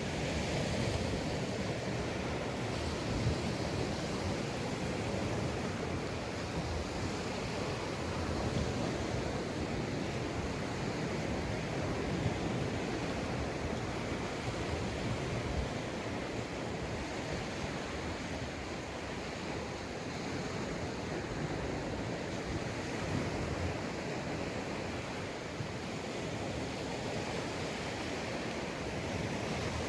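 Sea waves breaking and washing onto a sandy beach in a steady wash of surf, swelling and easing gently, with some wind on the microphone.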